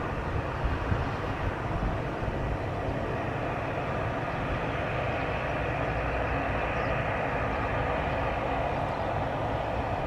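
Cargo plane's engines running with a steady rumble and roar as it comes in to land.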